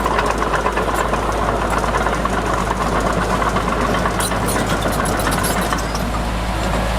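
Diesel engine of heavy earthmoving machinery running steadily, with a run of sharp clicks and rattles between about four and six seconds in.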